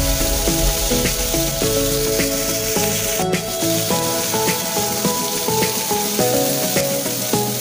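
Chicken skewers sizzling steadily in a hot ridged grill pan. Background music with a melody of held notes plays throughout.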